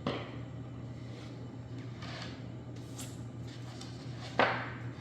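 Light knocks and handling sounds while materials are worked on the floor, with a small knock at the start and one sharp, loud knock near the end.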